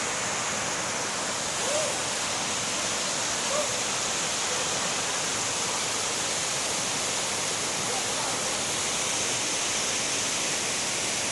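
Waterfall rushing steadily, with a couple of faint, brief voices about two and three and a half seconds in.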